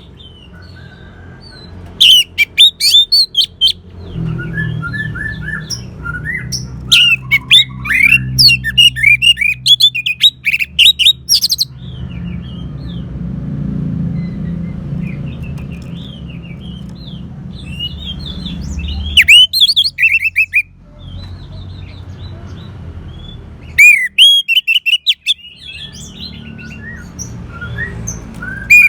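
Orange-headed thrush singing: about five loud bursts of rapid, varied whistled phrases, separated by pauses of a few seconds. A steady low hum runs underneath.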